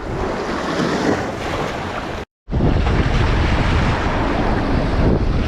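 Wind buffeting the microphone over surf washing on the beach, a steady noisy rush. The sound drops out completely for a moment just over two seconds in, then comes back with a heavier low wind rumble.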